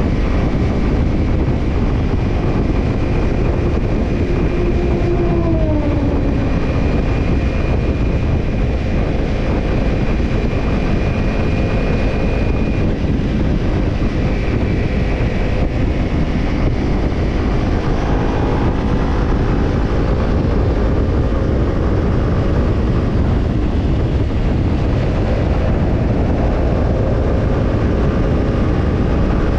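Kawasaki Ninja 250 parallel-twin running through a BEET Japan Nassert Evolution Type II titanium slip-on muffler while riding, under heavy wind and road noise on the camera's microphone. The engine note drops briefly about five seconds in, then climbs gradually through the second half.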